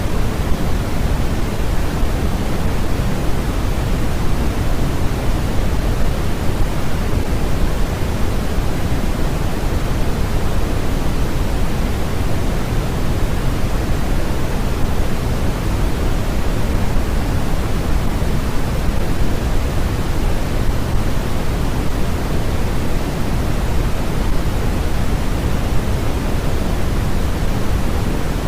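Steady, unbroken generated noise from a sleep-noise track: an even hiss that is stronger in the lows and fades toward the highs, closer to pink noise than flat white noise.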